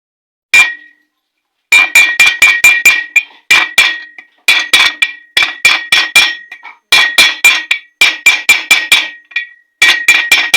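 Hammer blows on metal with a bright ringing tone, a single strike and then quick runs of about four strikes a second with short pauses between: a 6201 ball bearing being tapped into place on a Honda Shine crankshaft.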